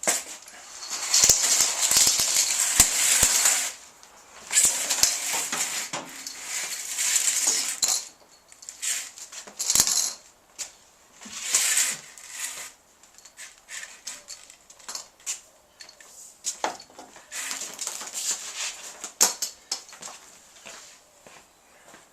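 Compressed air hissing in several bursts of one to a few seconds each, with clinks and knocks between them.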